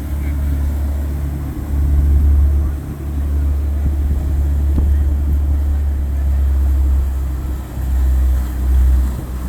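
Motorboat engines passing, a steady deep rumble that swells louder about two seconds in and again near the end.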